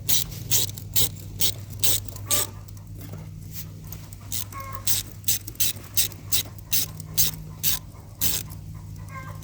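Hand socket ratchet clicking as it tightens hose clamps onto a water line fitting, with sharp clicks about two to three a second.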